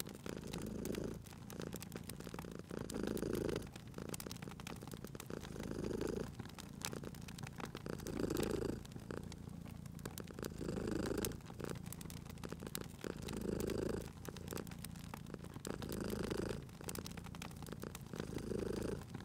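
Domestic cat purring steadily, swelling and fading about every two and a half seconds as it breathes in and out, over a steady scatter of small crackles from a wood fire.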